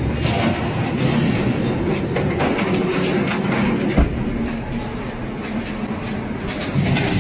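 Continuous rattling, clattering mechanical noise over a low rumble, with a single sharp knock about four seconds in.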